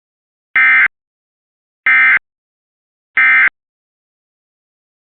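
Three short, loud warbling data bursts about a second apart: the Emergency Alert System end-of-message tones that close the tornado warning broadcast.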